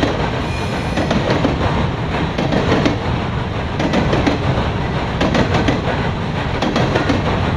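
Norfolk Southern freight train of grain cars rolling past, a loud steady rumble with steel wheels clicking over the rail joints.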